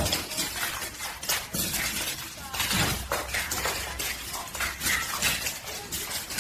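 Dense, irregular clattering of hard objects, many small knocks and rattles in quick succession.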